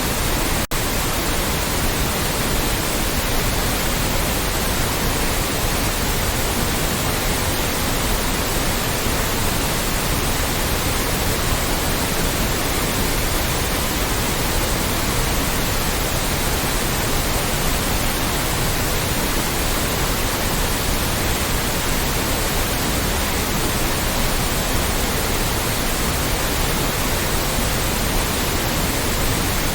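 Steady, loud generated white noise: an even, unchanging hiss spread across all pitches, with one split-second dropout less than a second in.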